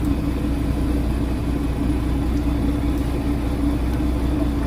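Fishing boat's engine running steadily at constant speed, a low drone with a steady hum.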